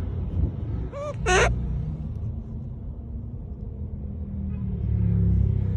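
A monkey giving two short, high-pitched calls about a second in, the first fainter, the second louder. A steady low rumble runs underneath.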